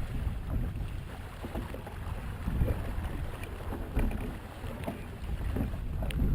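Wind buffeting the microphone and water splashing against a kayak moving under sail, a steady low rumble with scattered small knocks and splashes.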